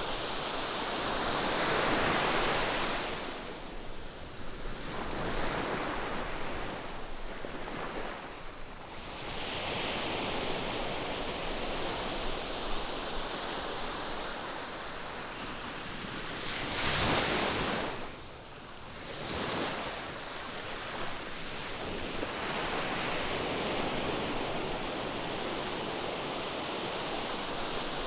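Ocean surf breaking on a sandy beach: a continuous wash of waves that swells and ebbs, with a sharper surge about two-thirds of the way through. Some wind on the microphone.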